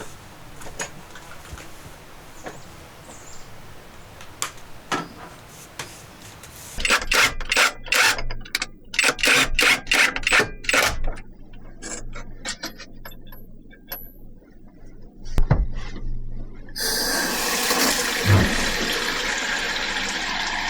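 A series of clicks and rattles from handling tools or fittings, then, about seventeen seconds in, a steady rush of running water starts and keeps going.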